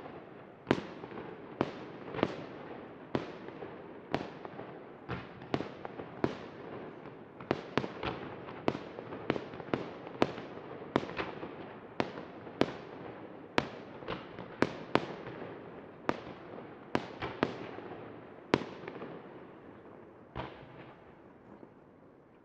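Fireworks display: a rapid series of aerial shell bursts, each sharp bang trailing off in a long echo, with the crackle and rumble of the display running between them. The bangs come one to three a second, then thin out and fade over the last few seconds with one last bang.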